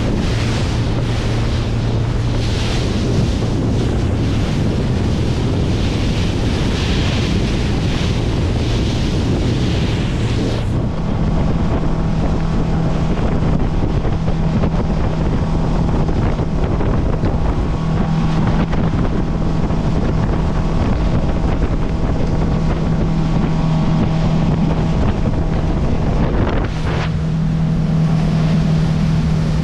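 Yamaha outboard motor driving a bay boat at speed, a steady engine hum under wind on the microphone and rushing water. About eleven seconds in the sound changes sharply to a steadier, higher-pitched hum with less wind, which belongs to the boat with the Yamaha 150 four-stroke.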